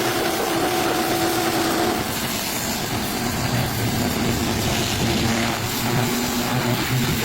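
A machine running steadily with a loud noisy hum, its tone dropping lower about two seconds in.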